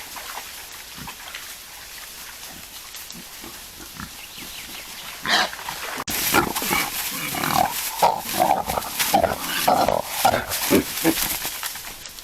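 Wild boars grunting, a rapid run of short grunts that starts about halfway through, after a few seconds of soft rustling.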